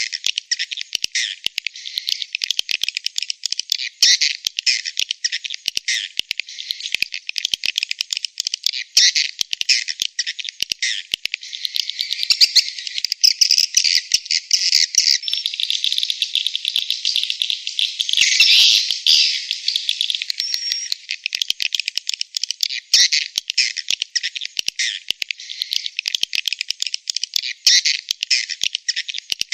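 Swiftlet calls: dense, rapid high twittering chirps that run on without a break, busiest in the middle.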